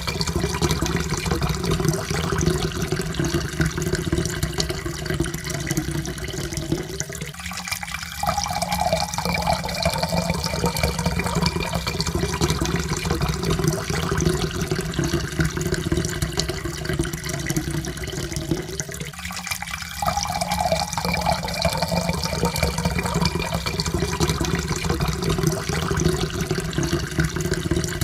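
Water pouring steadily into a cup, the tone slowly rising as the cup fills. The pour breaks off briefly twice, about twelve seconds apart, and starts again each time.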